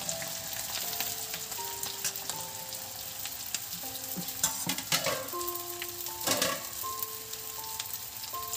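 Chopped okra and potatoes sizzling in hot mustard oil in a kadhai, with a few short clatters of stirring about halfway through.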